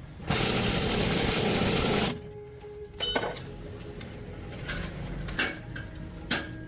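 Metalwork sounds: a loud hiss lasting just under two seconds, then a sharp ringing metal clank about three seconds in, followed by a few lighter knocks.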